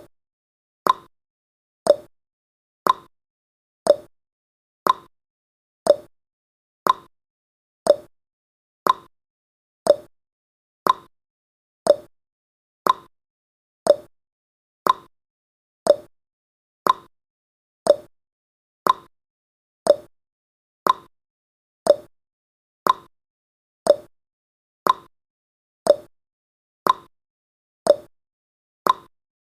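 Clock-tick sound effect of a countdown timer, one short sharp tick each second, evenly spaced.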